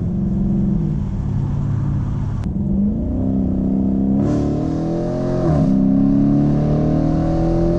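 Sports car engine accelerating hard: its pitch climbs, drops sharply at an upshift about five and a half seconds in, then climbs again.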